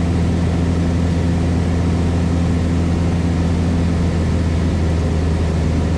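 Cessna 172S Skyhawk's four-cylinder Lycoming engine and propeller droning steadily in cruise flight, heard from inside the cabin.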